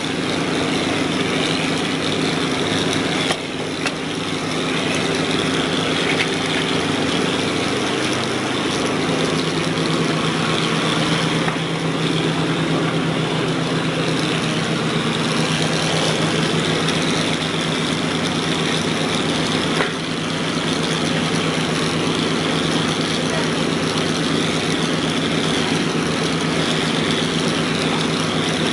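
Engine of a heavy construction machine running steadily, its note shifting to a different pitch about eight seconds in, with a couple of brief knocks.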